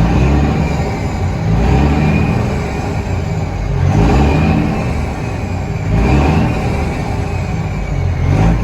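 Warm Caterpillar C15 inline-six diesel in a Kenworth T800W dump truck being revved in repeated blips, about five rises in pitch and loudness roughly every two seconds, with the engine answering the throttle quickly.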